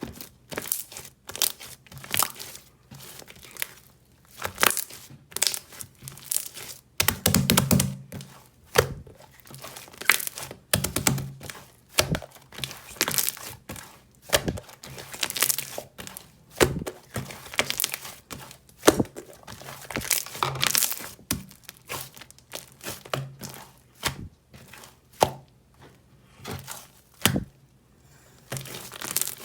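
Hands pressing, stretching and squeezing a large clear blue jelly toy, making an irregular run of crackles, crinkles and sticky tearing sounds, with a few fuller squelchy presses now and then.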